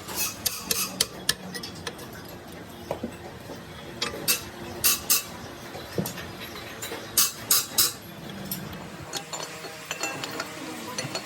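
Metal-on-metal clinks and knocks from tools and gear parts being handled during a tractor differential repair, in a few separate clusters of sharp strikes.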